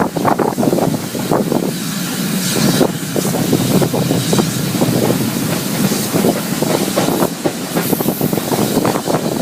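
A heritage train running along the line: a steady rumble of carriage wheels on the track with an irregular clatter of knocks over the rails, and a hiss above it.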